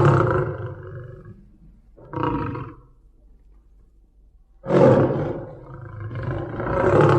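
A tiger roaring. A long roar fades out over the first second or two, a short roar follows about two seconds in, and a loud roar starts suddenly near five seconds in and swells again toward the end.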